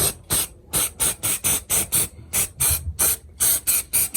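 Aerosol can of weld-through primer sprayed in short, rapid bursts, about four or five hisses a second.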